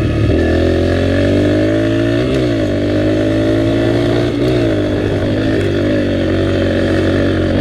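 Dirt bike engine running under way as it is ridden, its pitch climbing gradually, with two quick jumps in pitch about two and four and a half seconds in.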